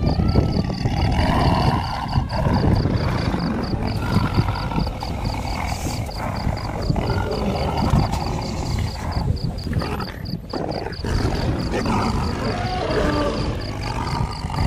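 Lioness growling and roaring in a low, continuous rumble. Higher pitched calls come in near the end.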